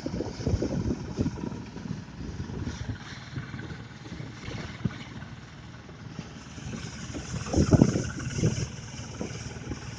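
Engine of a rice-threshing blower machine running, with irregular low rumbles that swell in the first second and again about eight seconds in.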